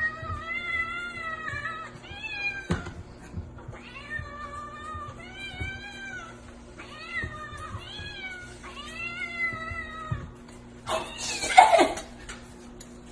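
A cat meowing in a string of long, drawn-out meows, about six in the first ten seconds, each rising and falling in pitch, then a louder, rougher cry about eleven seconds in.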